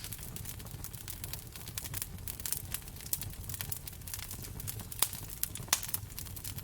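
Wood fire crackling in a fireplace: irregular snaps and pops over a low steady rumble of flame, with a couple of louder pops about five and six seconds in.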